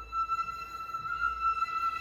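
A flute enters on a high note and holds it with a slight waver, in a flute ensemble's performance of contemporary concert music.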